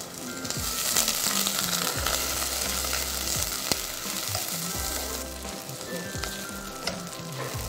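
Shallots, green chillies, bay leaves and galangal sizzling in hot oil in a pot as they are sautéed until fragrant, stirred with a silicone spatula that knocks the pot a few times. The sizzle swells about a second in and eases off near the end. Soft background music plays underneath.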